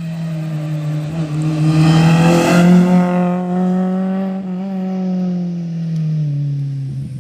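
A rally car's engine running hard at high revs as the car passes at speed, loudest about two and a half seconds in; the engine note drops lower about six seconds in.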